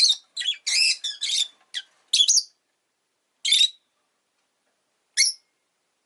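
Rosy-faced lovebird giving shrill, high chirps: a quick run of calls at first, then single calls spaced a second or more apart.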